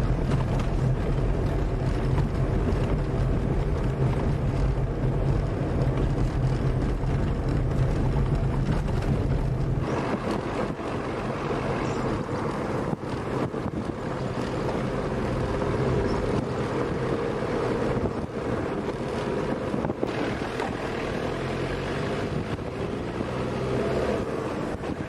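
A vehicle engine running steadily while driving, with some wind noise. The deep hum weakens about ten seconds in, leaving a higher steady drone.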